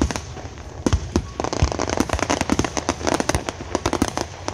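Starmine aerial fireworks barrage: a shell bursts with a bang about a second in. From about a second and a half on comes dense, rapid crackling and popping of many crackling stars, with further bangs among them.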